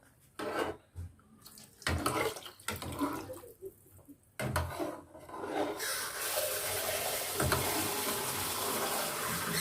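Broth being poured into a pot of cooking vegetables: a few short splashes at first, then a steady pour from a little past halfway.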